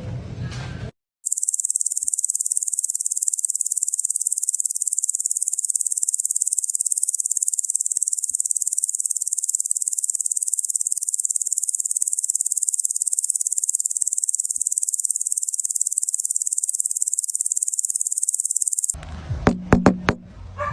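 A steady, high-pitched, rapidly pulsing buzz like insects chirring starts about a second in and cuts off near the end. It is followed by a few sharp knocks.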